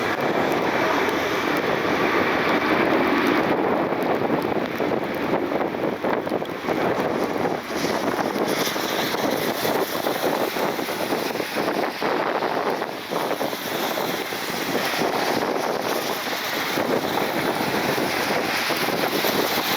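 Gusty wind buffeting the microphone: a loud, steady rushing noise broken by irregular gusts.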